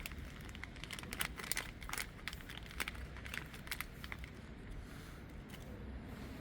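Plastic crinkling and rustling in quick, irregular crackles that thin out after about four seconds, over a steady low rumble.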